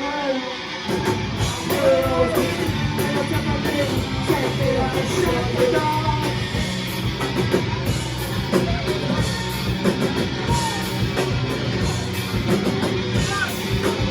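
A live heavy rock band playing loud, with electric guitars, bass and drums; the full band comes in heavier about a second in.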